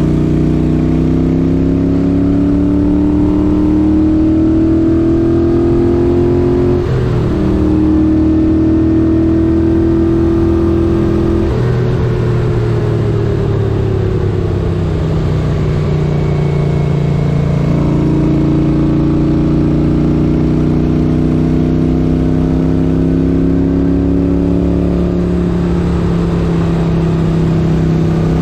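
1978 Moto Guzzi 850 Le Mans air-cooled V-twin running under way, its pitch climbing as the bike accelerates. The pitch changes in steps as gears are changed, about seven and eleven seconds in, then falls away as the bike slows and holds fairly steady near the end.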